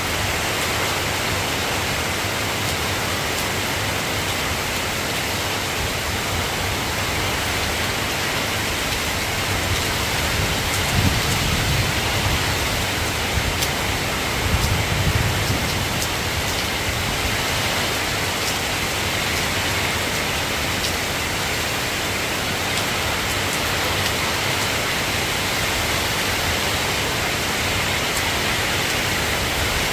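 Steady, even hiss of soft rain falling. There are two low rumbles about eleven and fifteen seconds in.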